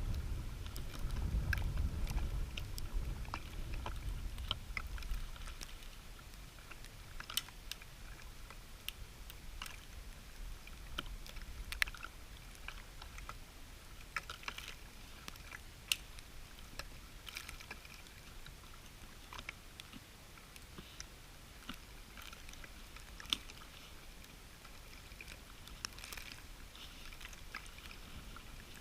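Dry dead oak sticks being snapped and handled: irregular sharp cracks and snaps scattered throughout, with a low rumble of wind on the microphone in the first few seconds.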